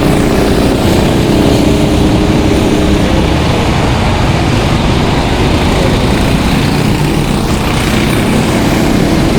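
Several racing kart engines running loud and overlapping as karts lap the track, with a steady hiss over them.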